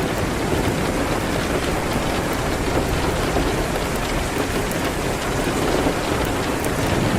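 Steady rain hitting a window, a dense, even hiss with no let-up, with a few faint sharp ticks near the end.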